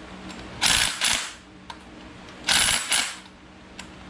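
Hand ratchet wrench tightening engine bolts: two strokes of quick clicking about two seconds apart, each about half a second long.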